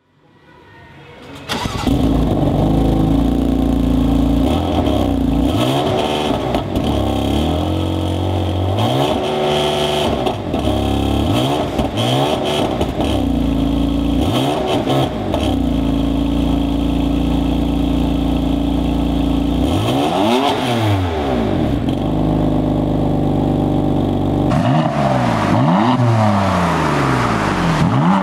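BMW M4's twin-turbo straight-six starting about a second and a half in, then idling with a series of short throttle blips that rise and fall in pitch, heard through its exhaust.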